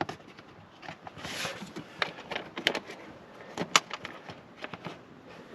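Irregular clicks and knocks of hands fastening the spring clamps on the air filter housing of a Mercedes W201 190D, with a short scrape a little over a second in.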